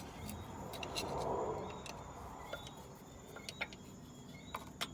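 Scattered light clicks and taps from hand tools working on tractor parts, with a brief scraping rustle about a second in.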